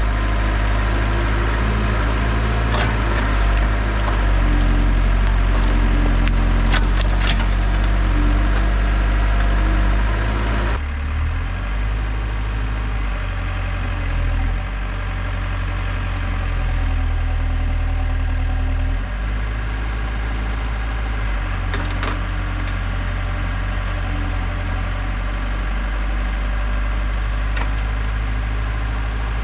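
Heavy equipment engine running and labouring, its pitch shifting with the load, with wood cracking and splintering a few times as trees and brush are broken. The engine sound changes abruptly about eleven seconds in.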